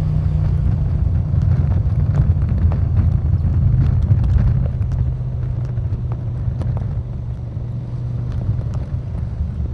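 KTM 1290 Super Duke R's 1301 cc V-twin engine running at low, steady revs, with a deep pulsing note and faint ticks over it. It eases off slightly about halfway through.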